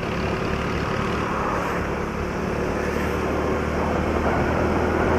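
Honda Pridor 100cc single-cylinder four-stroke engine running at a steady cruise, with wind and road noise while riding.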